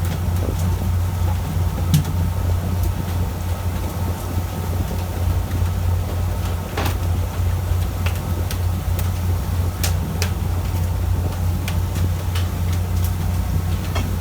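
Fishing boat's engine running steadily with a low drone, with scattered sharp clicks and knocks over it.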